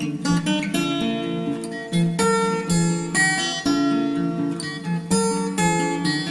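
Background music: an acoustic guitar playing a melody of plucked and strummed notes.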